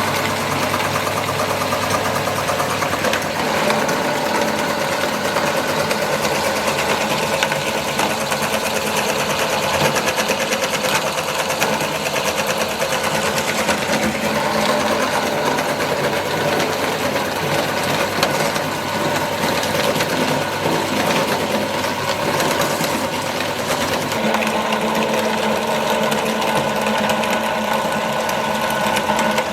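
Electric meat grinder running steadily, its motor whirring with a fast, fine rattle as it grinds chicken; the tone of the hum shifts slightly near the end.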